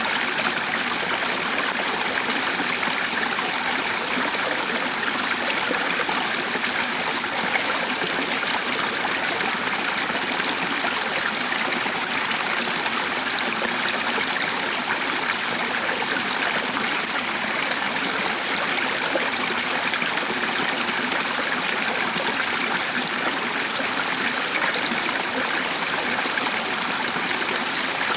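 Running water from a stream, flowing with a steady, even rush.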